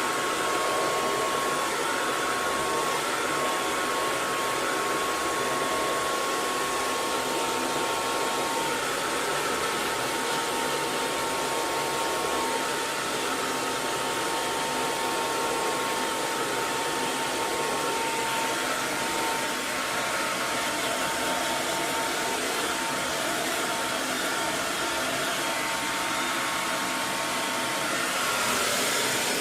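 Hair dryer running steadily: an even rush of blown air with a faint steady motor whine, turning slightly brighter near the end.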